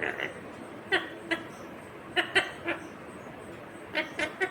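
Indian ringneck parakeet giving a series of short, clipped calls in small clusters, about nine in all.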